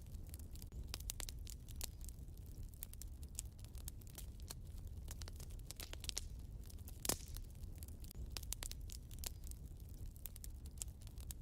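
Wood fire burning in a fireplace: steady crackling with many small snaps and one sharper pop about seven seconds in, over a low rumble of the flames.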